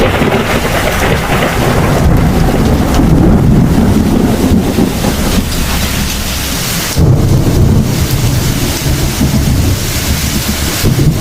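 Thunderstorm: heavy rain hissing steadily under deep rolling thunder. A fresh, louder rumble of thunder starts suddenly about seven seconds in.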